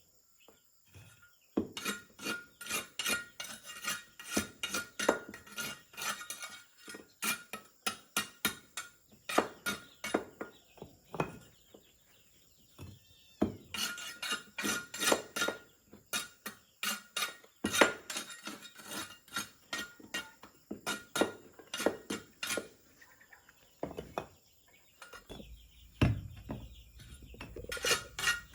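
Rapid sharp knocks and clinks, about three a second, in two long runs with a short pause between them, and a shorter, heavier stretch near the end.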